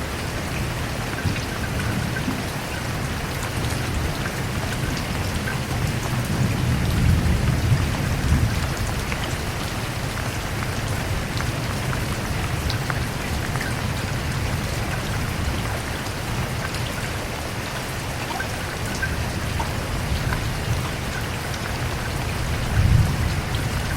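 Steady rain falling on a surface, with scattered drop ticks. Low rumbles swell up about seven seconds in and again near the end, like distant thunder.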